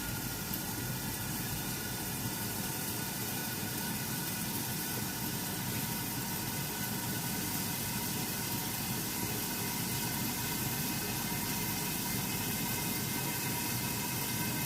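Steady hiss of chicken wings cooking in a pan on the stove, with a faint steady hum under it.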